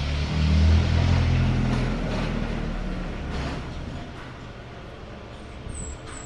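A motor vehicle passing close by: its engine rises in pitch as it speeds up, loudest about a second in, then fades over the next few seconds.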